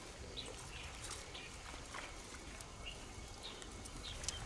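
Faint outdoor ambience: scattered short chirps, most likely small birds, over a low wind rumble, with a few light clicks.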